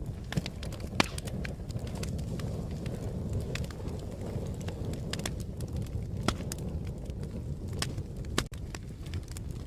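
Fire crackling: a steady low rumble with sharp pops and snaps at irregular intervals. The sound briefly drops out about eight and a half seconds in.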